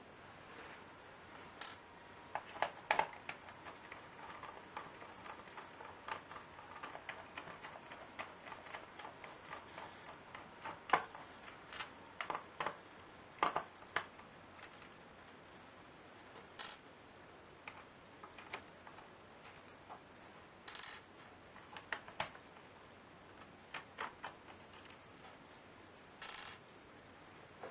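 Irregular light clicks and taps of small laptop parts and screws being handled as a Lenovo Y570 laptop is taken apart, with a few short scraping sounds.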